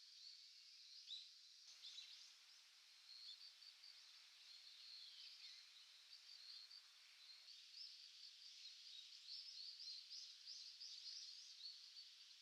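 Faint, continuous twittering of wild birds: many small, high-pitched chirps overlapping, growing a little busier in the second half.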